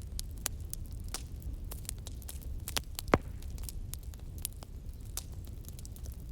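Wood fire crackling, with frequent sharp pops over a low steady rumble and one louder snap about three seconds in.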